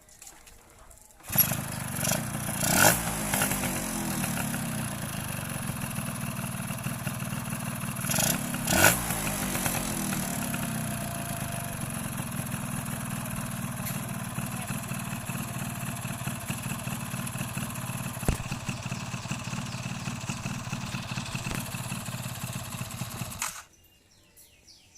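Small two-stroke single-cylinder motorcycle engine, a Yamaha F1Z R unit in a Yamaha V80 frame, starting about a second in and idling, blipped twice to a sharp rev that falls back to idle, then cut off suddenly near the end.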